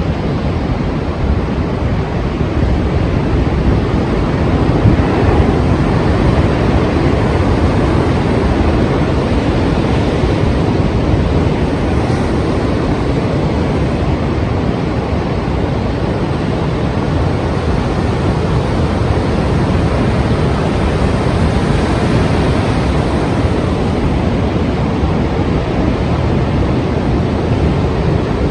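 Strong sea surf breaking and washing, a steady loud rushing roar with gentle swells, with wind blowing.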